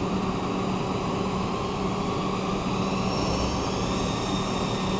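Haas CNC lathe machining a part with coolant flooding the work: a steady rushing of coolant over a constant hum from the running spindle, with a faint high whine joining about three seconds in.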